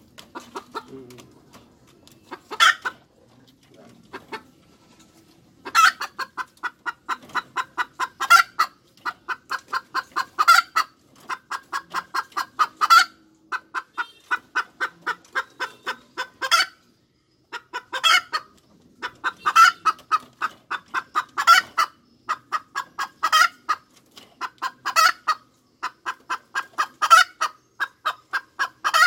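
Hen cackling: runs of short, quick clucks about five a second. Each run ends in a louder drawn-out squawk, repeated every two seconds or so, with one brief pause about two-thirds of the way through.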